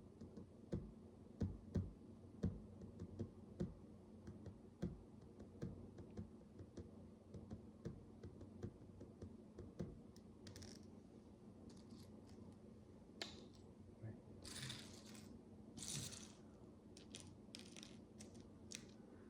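Micro bricks (miniature plastic building bricks) clicking and tapping as small pieces are handled and pressed together, a run of many small clicks, followed by a few brief rustles near the end.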